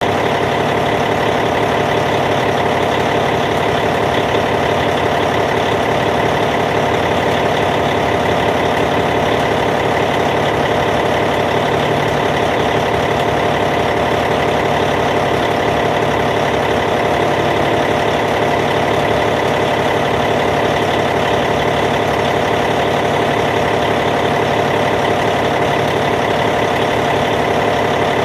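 Caterpillar C15 diesel engine of a D8T bulldozer idling steadily, at an even pitch and level.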